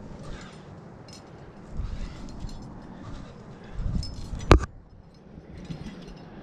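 Metal climbing hardware clinking and jangling, with one sharp click about four and a half seconds in, over low wind rumble on the microphone.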